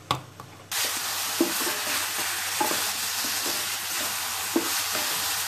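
A sharp click of a knife on a wooden chopping board, then, from under a second in, grated carrots sizzling steadily in a stainless steel kadai as they are stirred with a wooden spatula, with scattered knocks of the spatula against the pan. The carrots, cooked with milk and sugar for gajar ka halwa, are being fried down until their liquid dries off.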